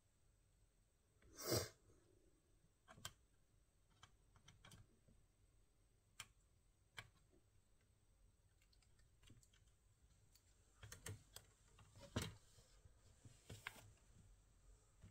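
Faint, scattered clicks and taps of small hard objects being handled, with the loudest knock about a second and a half in and a quick cluster of clicks near the end.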